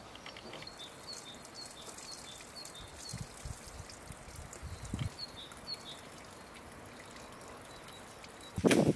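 Small birds singing outdoors: runs of short, high chirps repeated over a faint outdoor hush, with a few soft low thumps. Near the end comes a sudden loud crack.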